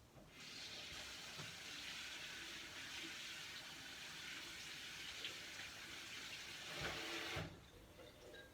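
Kitchen tap running into the sink, a steady hiss as canned black beans are drained and rinsed, swelling with a few low knocks just before it is shut off about seven and a half seconds in.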